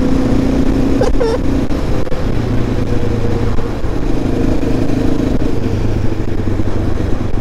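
Yamaha Raptor quad's engine running steadily while riding, its note rising and falling a little with the throttle.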